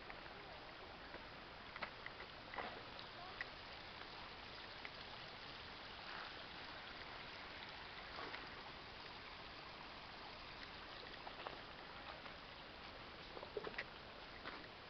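Steady rush of a mountain stream, with scattered short clicks and knocks over it.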